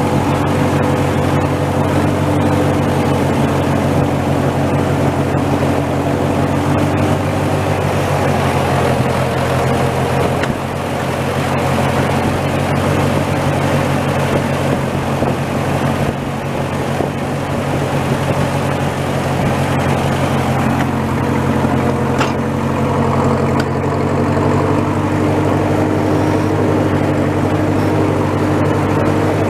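Old Massey tractor's engine running steadily at an even speed.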